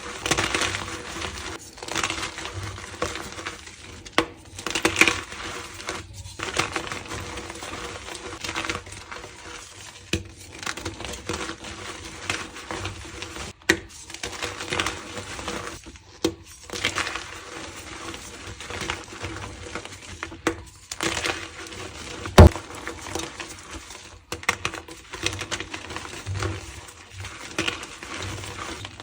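Reformed gym chalk crunching and crumbling as it is crushed, in a steady run of short, dry crunches. One sharp, loud crack about three-quarters of the way in.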